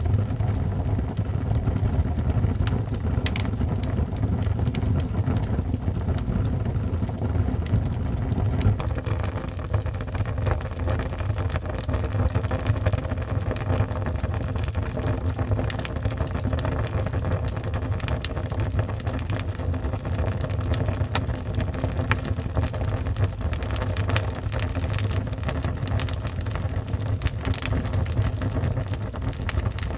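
Wood fire burning in a fireplace: a steady low rumble with frequent small crackles and pops, which become more frequent after about nine seconds.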